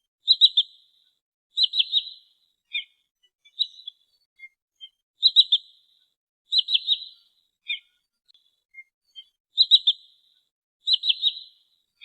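Sandpiper calls from a lure recording: quick clusters of three or four high whistled notes. The clusters come in pairs about every four seconds, with single short notes between them.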